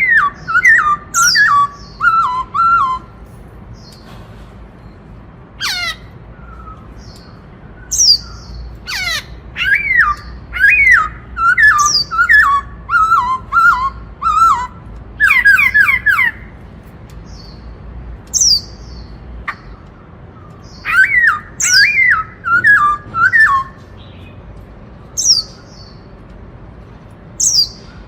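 Black-throated laughingthrush (khướu bạc má) singing loudly in the 'Bắt Cô Trói Cột' style: repeated phrases of clear falling whistles, several notes to a phrase, with short high calls between and pauses of a second or two between phrases.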